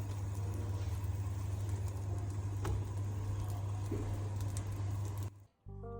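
Steady low hum with a hiss over it, cutting off abruptly about five seconds in, followed by soft background music.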